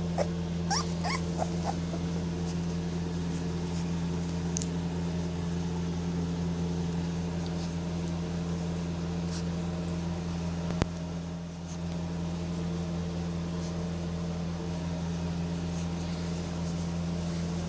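A few brief, high, squeaky whimpers from young Presa Canario puppies about a second in, over a steady machine hum, with a single sharp click near the middle.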